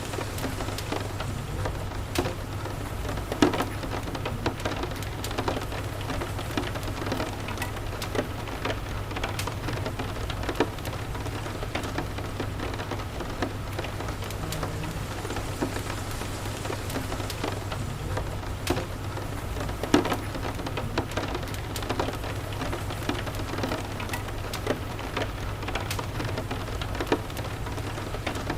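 Steady rain falling, with irregular sharp pops and crackles from a wood fire in a fireplace and a low steady rumble underneath.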